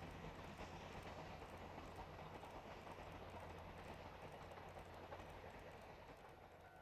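Faint running rumble of a train on the track, with light rhythmic clicking, fading away toward the end.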